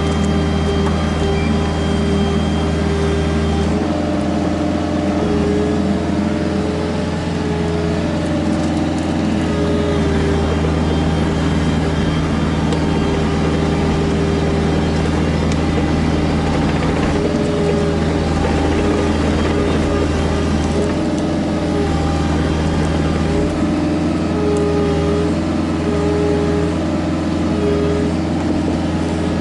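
Kubota KX121-3 mini excavator's diesel engine running steadily, its note shifting up and down every few seconds as the machine works.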